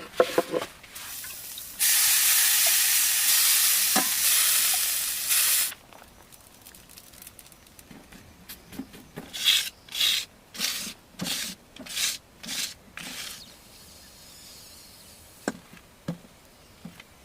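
Food sizzling in a hot pan: a loud sizzle for about four seconds, then a string of about ten short sizzles.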